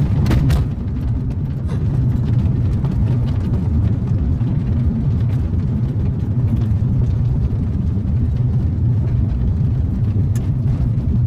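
Steady low rumble of a car's engine and tyres heard from inside the cabin while driving along a country road.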